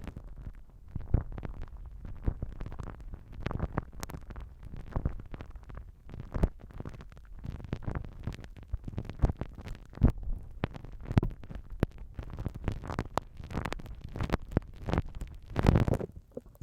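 Slime being squished and worked against a binaural microphone: wet, sticky squelches with many irregular crackles and pops, close and bassy.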